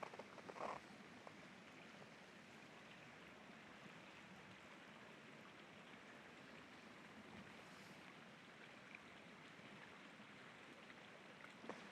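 Faint, steady rush of river rapids flowing under ice-rimmed banks, with a brief crunch of a boot in snow just after the start.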